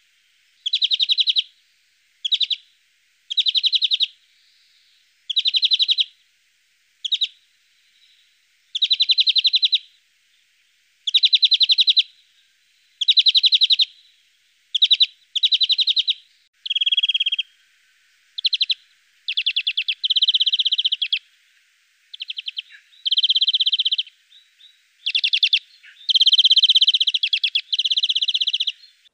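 European greenfinch singing: a series of short, rapid trills, each about half a second to a second long, repeated with brief pauses in between.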